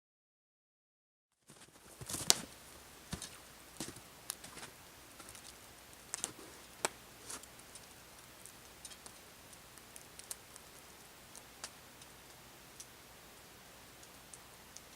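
Wood fire crackling: irregular sharp pops and snaps over a steady low hiss, starting after a second and a half of silence. The pops are thickest and loudest in the first few seconds, then thin out to an occasional snap.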